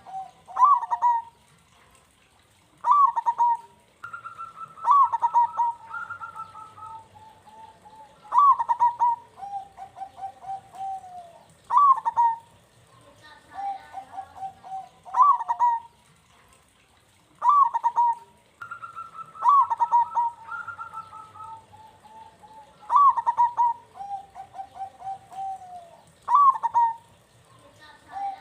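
Local zebra dove (perkutut) cooing in its full, loud 'kung' song. Phrases repeat every few seconds, each a sharp rising note followed by a rapid run of trilled coos.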